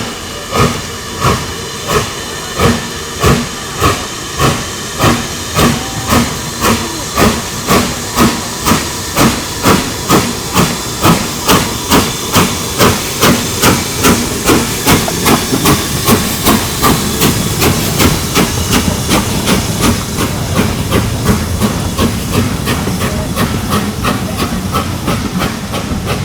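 Steam locomotive pulling away, its exhaust beats quickening from about one every 0.7 s to several a second until they run together into a steady rush, with steam hissing throughout.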